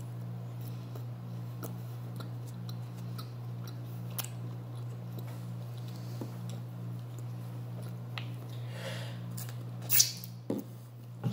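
Close-up chewing and mouth smacking, with many small wet clicks, from a person eating food with her fingers. Near the end there is a loud wet smack and suck as she licks her fingers. A steady low hum runs underneath.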